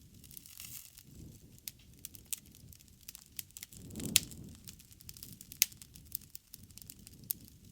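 Wood fire burning, with irregular sharp crackles and pops over a low rumble of flames. A louder surge of flame about four seconds in ends in a loud pop.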